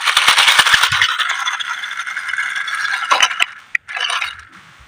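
Dense rattling and scraping for about three and a half seconds, then a few short rattles that die away.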